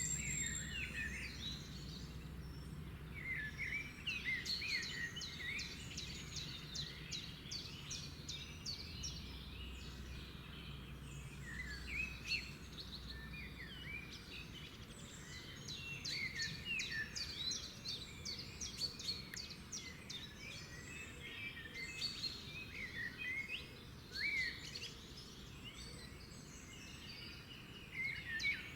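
Several songbirds singing, with short chirps and quick trills in repeated phrases, over a faint steady outdoor background hum.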